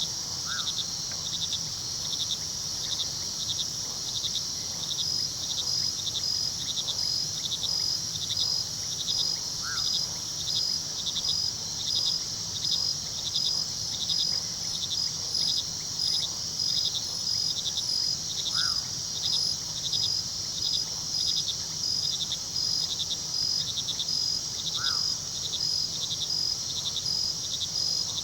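Crickets chirping steadily in a fast, even pulse over a continuous high trill, with a low steady rush of river water underneath. A short call sounds four times, several seconds apart.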